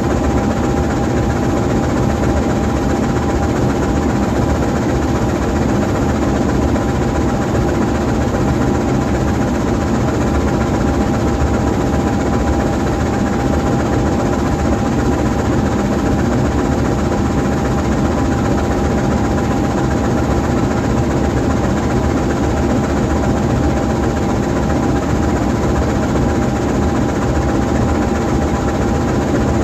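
GE U20C diesel-electric locomotive's twelve-cylinder diesel engine idling steadily while parked: a constant low rumble with a steady high whine over it.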